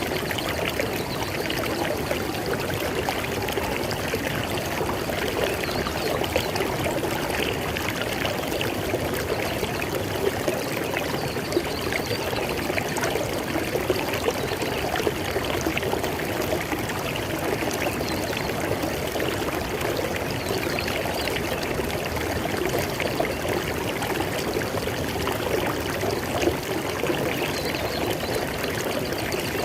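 River water flowing and splashing over rocks: a steady, even rush with fine bubbling and trickling detail.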